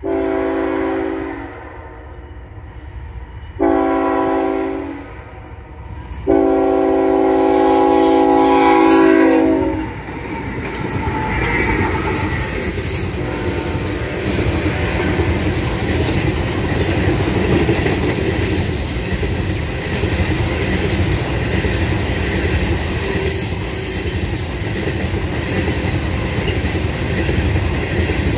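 Freight train led by two GE ET44AH diesel locomotives sounds a multi-note air horn in three blasts, the last one the longest. The locomotives then pass close by, and a steady rumble and clatter follows as loaded rock gondola cars roll over the rails.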